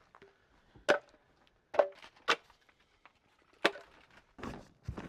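Firewood knocking: four sharp wooden knocks spaced unevenly, then softer scuffing near the end.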